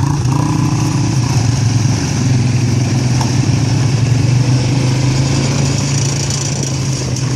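A motor vehicle's engine running steadily at an even pace, with a steady hiss of wind or road noise over it.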